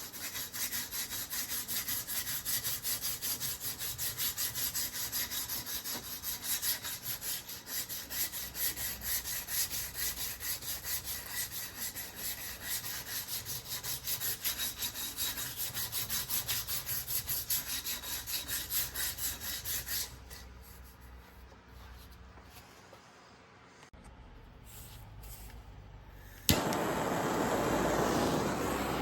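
Rapid back-and-forth hand rubbing strokes, about two or three a second, typical of abrading rust off the steel head of an old hammer. They stop about two-thirds of the way in. Near the end a sharp click starts a loud, steady, noisy sound.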